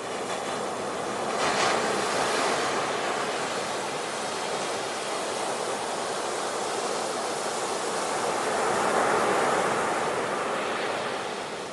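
Ocean waves washing onto a shore, the surf swelling twice: once about two seconds in and again near the end.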